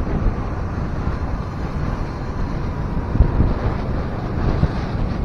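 Wind buffeting the action camera's microphone on a moving scooter, a steady gusty rumble over the noise of the ride.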